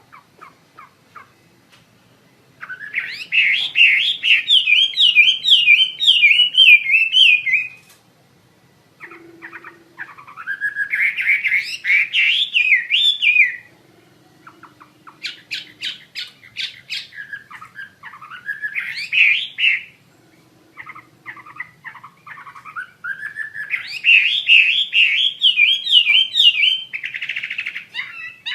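Chinese hwamei singing loud, fast warbled phrases, each a run of rapidly repeated rising and falling notes lasting several seconds, four phrases in all with short pauses between.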